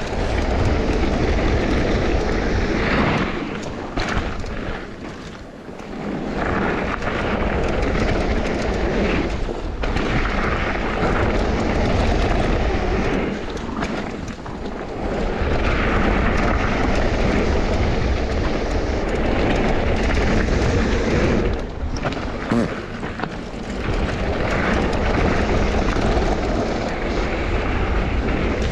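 Mountain bike descending a bike-park trail: wind rushing over the camera microphone and the tyres and bike rattling over the trail, a steady loud rumble. It eases briefly about five seconds in and twice more later on.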